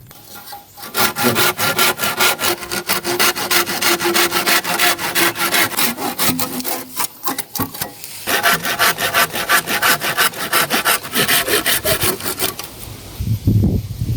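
A hand saw cutting through wood with fast, even back-and-forth strokes. It pauses briefly about seven seconds in, resumes, and stops near the end, where a few low knocks or rustles follow.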